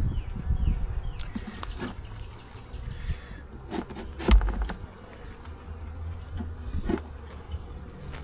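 Honey bees buzzing around an open hive, with scattered clicks and knocks from handling, and one louder thump about four seconds in.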